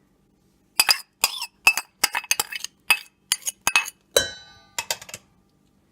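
A spoon clinking against a bowl: a quick, uneven run of light taps, with one louder ringing strike about four seconds in.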